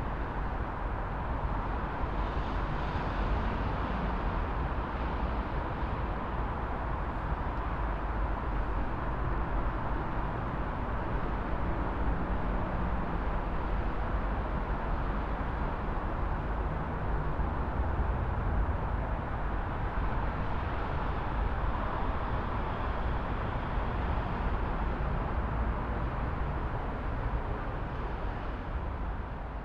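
City traffic ambience: a steady rumble and wash of passing road traffic, fading out near the end.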